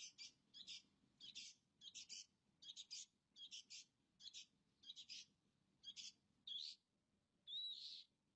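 Long-tailed shrike (cendet) song: a regular run of harsh, scratchy chirps about two a second, changing near the end into a rising whistle and then a longer arched whistled note.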